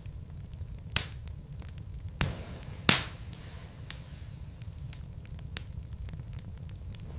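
Wood logs burning in a fireplace: a steady low rumble with scattered small crackles. Sharp pops come about one, two and three seconds in, the last the loudest.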